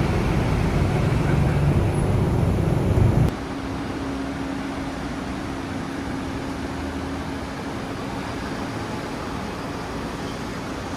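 A car engine running loudly with a low, steady drone that cuts off abruptly a little over three seconds in, followed by quieter steady street traffic noise with a faint hum.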